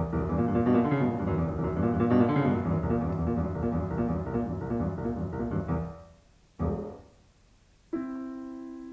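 Solo piano playing a fast, dense run of notes that dies away about six seconds in. A single short struck note or chord follows, and then a chord struck about eight seconds in rings on and slowly fades.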